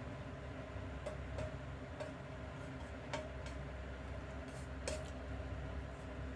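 A few light clicks of kitchen utensils against dishware, each with a short ring, over a steady low background hum.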